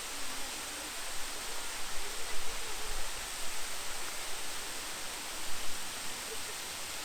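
Steady rush of a large waterfall, water falling and splashing in a constant even roar.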